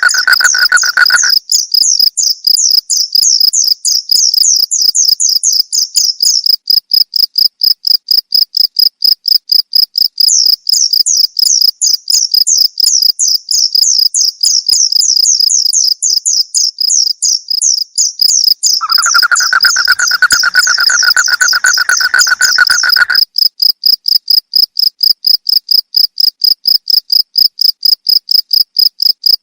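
Crickets chirping in a fast, continuous pulsing rhythm. A lower, steady trill joins briefly at the start and again about two-thirds of the way through.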